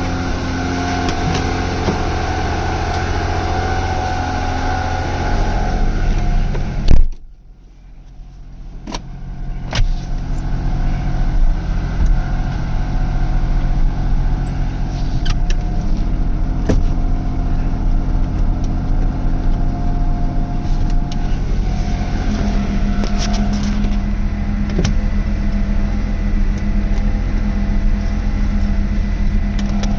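Subaru SVX's 3.3-litre flat-six idling steadily after a cold start. About seven seconds in, a single loud thump; the engine sound then drops away sharply and comes back over a few seconds. Scattered light clicks follow.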